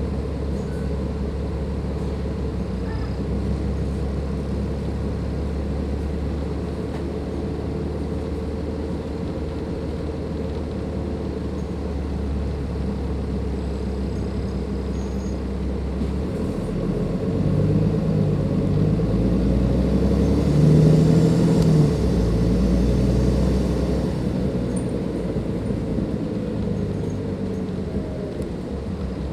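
Dennis Enviro 500 double-decker bus's Cummins ISLe diesel engine running steadily at low revs. Just past halfway the engine note rises as the bus accelerates, peaking about two-thirds of the way through, then eases back to a steady run.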